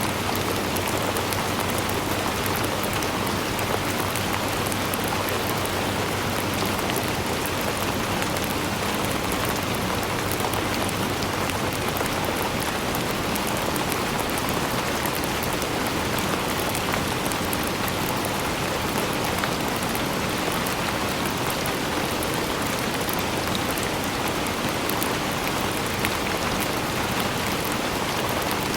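Steady, even rainfall with fine patter of drops on surfaces, no single drop or gust standing out.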